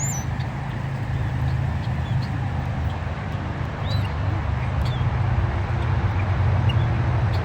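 A steady low rumble with a few short, high bird chirps over it, about one every second or two.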